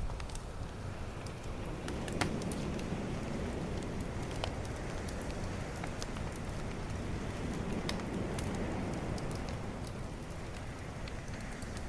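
Beach bonfire crackling with scattered sharp pops over a low, steady wash of calm ocean waves that swells gently and eases off again.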